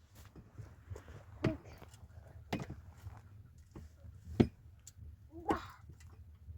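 A few scattered knocks and clicks, about four in all, over a low steady hum.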